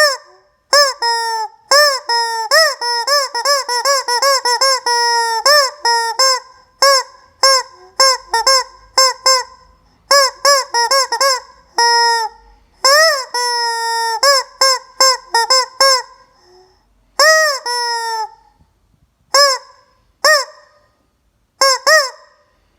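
Rubber screaming-chicken toy squeezed over and over. It gives a long series of short honking squawks, each rising then falling in pitch, in quick runs with a few short pauses and some longer drawn-out squawks.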